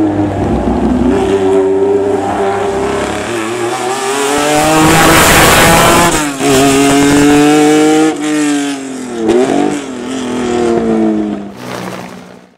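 Racing car engine accelerating hard through the gears, its pitch climbing and then dropping at each shift, with a short dip and rise about nine seconds in. It fades near the end and cuts off suddenly.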